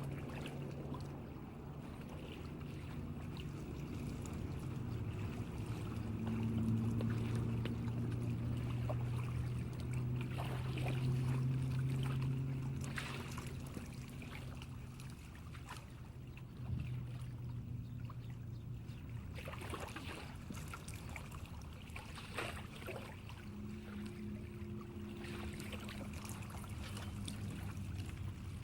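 A railroad car ferry's engines running as it comes in to dock: a steady low drone that swells louder for a while and eases off, with scattered clicks and knocks.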